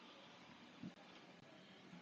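Near silence: room tone, with one faint low knock a little under a second in.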